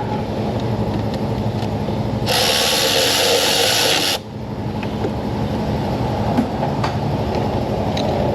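Power tool spinning a spark plug into the cylinder head, run in one loud hissing burst of about two seconds, over a steady low background rumble with a few light tool clicks.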